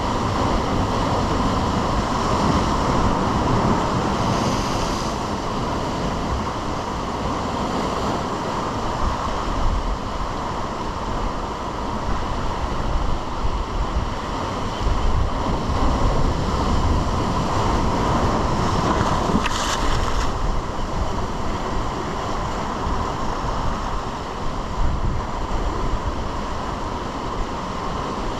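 Ocean waves and surf washing steadily, with wind rumbling on the microphone.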